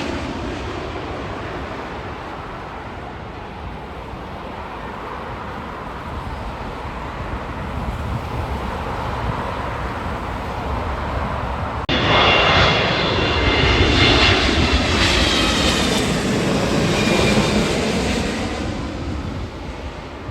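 Jet airliner's engines passing close: a steady rumble, then about twelve seconds in a sudden louder stretch with several high fan whines sliding slightly down in pitch, fading near the end.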